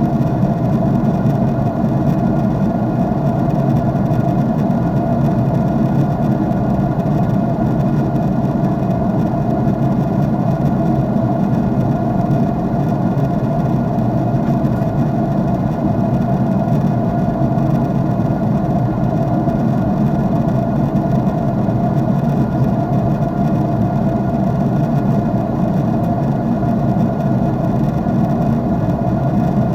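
Jet airliner's engine drone heard inside the cabin: a steady, even rush of noise, heaviest in the low range, that does not change.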